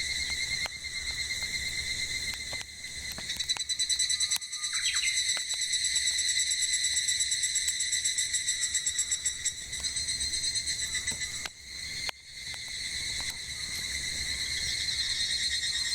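Cicadas singing in a steady, pulsing chorus, with a short bird call about five seconds in and a few sharp crackles from a burning wood fire.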